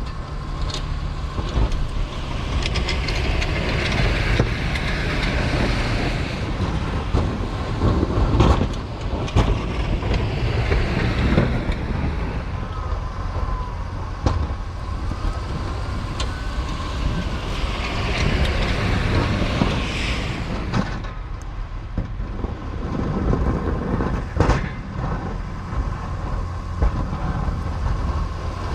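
A Chevrolet Silverado 2500HD's 6.6 L L5P Duramax turbo-diesel V8 running under load while plowing snow, a steady low rumble. A rushing, scraping noise swells twice and clanks sound now and then.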